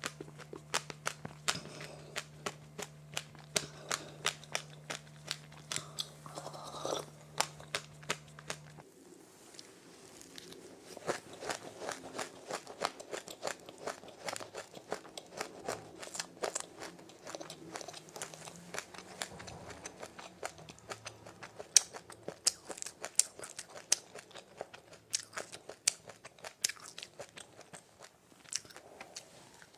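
Close-up chewing of a crunchy snack: rapid, irregular crunches, several a second, throughout.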